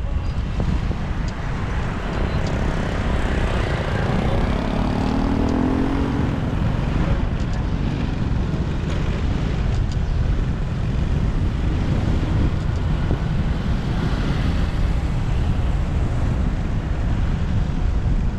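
Wind buffeting the microphone of a moving motorcycle, over steady traffic noise. A few seconds in, an engine tone rises and falls as a vehicle goes by.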